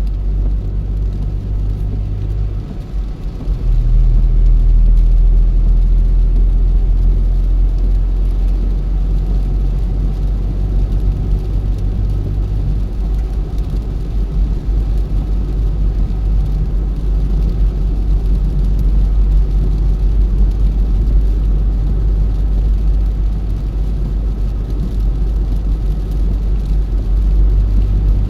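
Car driving on the road: a steady low rumble of engine and tyres that dips briefly about three seconds in, then comes back louder.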